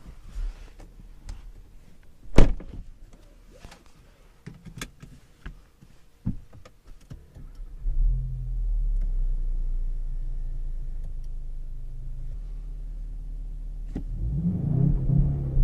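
Volkswagen Arteon's 2.0 TSI turbocharged four-cylinder petrol engine heard from inside the cabin. A few clicks and one sharp knock come first; about eight seconds in the engine starts and idles steadily. Near the end the revs climb as the car is readied for a launch-control start.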